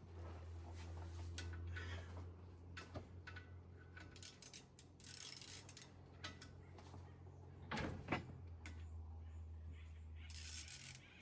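A steady low hum with scattered faint clicks and knocks of tools and parts being handled, and one louder knock about eight seconds in. The hum stops just before the end.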